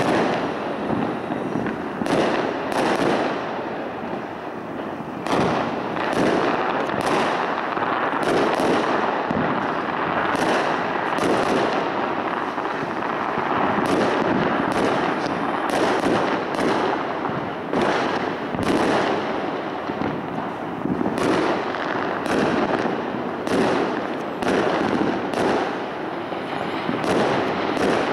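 Many aerial fireworks going off at once: a continuous dense din of pops and bangs, with sharper, louder bangs about once a second.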